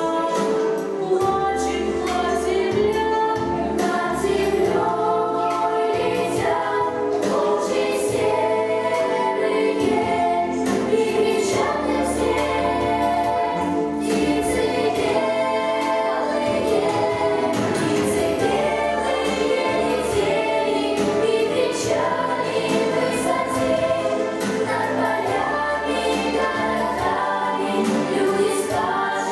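Children's voices singing a song in unison over an instrumental accompaniment with a steady beat.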